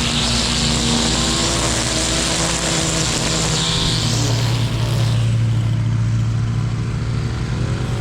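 Lawn mower engine running steadily, with a hiss over it that drops away about five seconds in.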